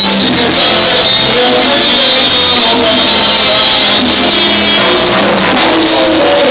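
Live salsa band playing, recorded very loud with poor sound quality.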